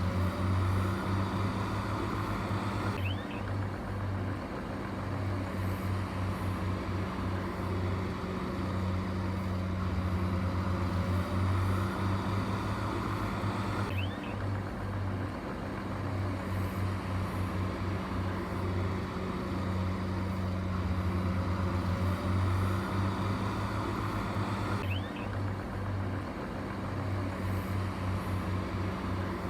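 Heavy diesel engine of earthmoving machinery running steadily with a low drone, its sound shifting abruptly about every eleven seconds.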